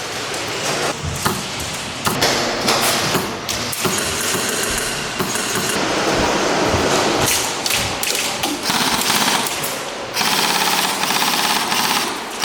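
Airsoft guns firing in rapid full-auto bursts, a fast mechanical clatter, with an unbroken run of fire in the last couple of seconds.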